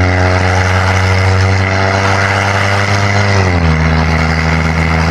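A big-turbo Subaru's turbocharged flat-four engine running at steady revs. About three and a half seconds in its pitch drops and holds lower.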